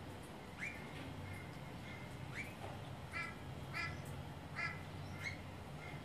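A bird calling over and over, about eight short calls in six seconds. The first few are quick rising notes, and the loudest are harsh, raspy calls in the middle.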